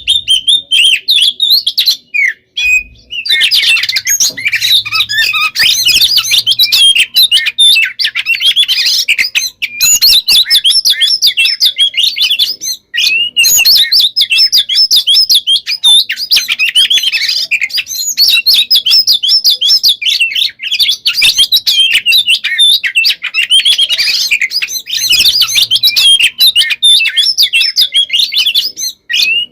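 Oriental magpie-robin (kacer) singing in a dense, almost unbroken stream of rapid whistles and trills, with a short pause about two to three seconds in.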